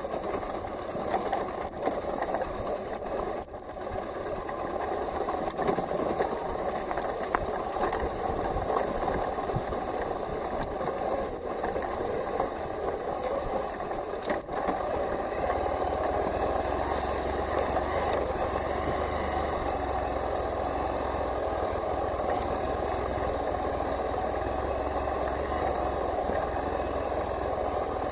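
Hero XPulse 200 4V motorcycle's single-cylinder engine running, with scattered knocks and rattles in the first half that turn to a steadier run after about fifteen seconds.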